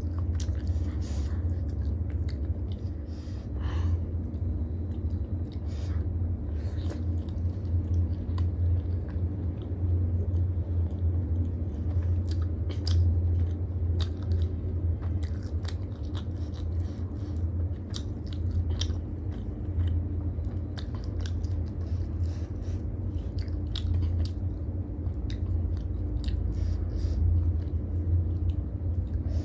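Close-miked mouth sounds of a person chewing food, with many irregular soft clicks, over a steady low hum.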